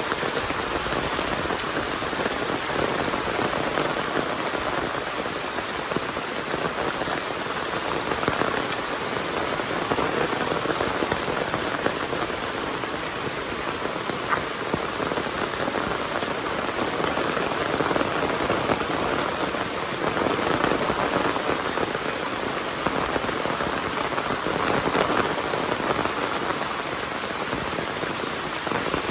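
Steady rain falling on surfaces, an even hiss with many individual drops.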